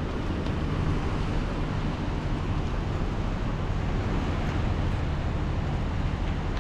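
Strong wind blowing across a ship's deck, buffeting the microphone as a steady low rumble with a hiss above it.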